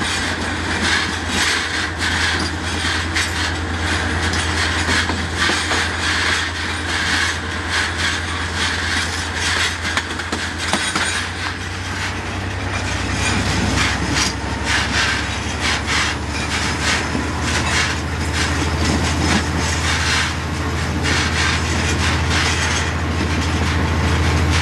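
Freight train rolling along, heard right at the coupling between the locomotive and a tank car: steady wheel-on-rail rolling noise over a constant low drone, with frequent irregular clicks and clacks. It grows somewhat louder over the second half.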